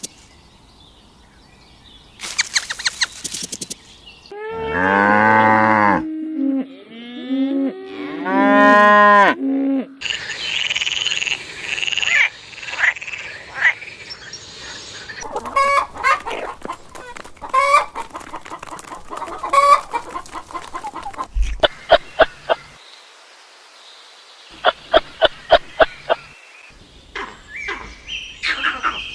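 Different animals calling one after another, separated by short pauses: a few drawn-out, wavering calls, then clusters of short calls, then a run of quick repeated calls near the end.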